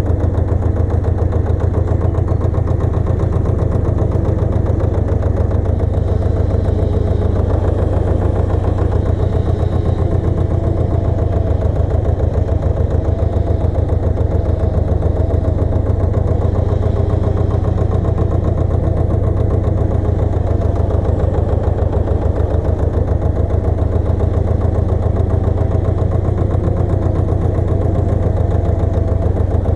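Pasquali 980 EX two-wheel walking tractor's engine running steadily with a rapid, even beat.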